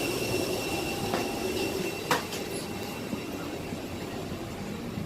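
Steady airliner cabin hum of an Airbus A320 during boarding, with two short sharp clicks about one and two seconds in.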